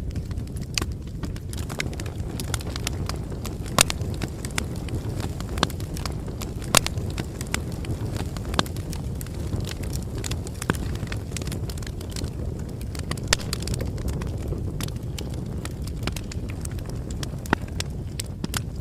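Bonfire burning: a steady low rumble of flames with irregular sharp crackles and pops from the burning wood, a few of them louder.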